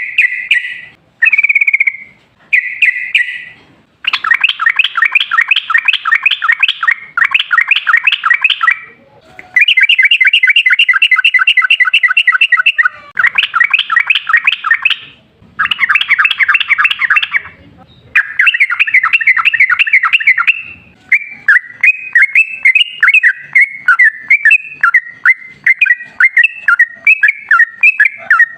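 Yellow-vented bulbul (trucukan) singing loudly in long, rapid rolling runs of bubbly notes, broken by short pauses. The song opens with a few short calls and turns choppier and more jumbled near the end.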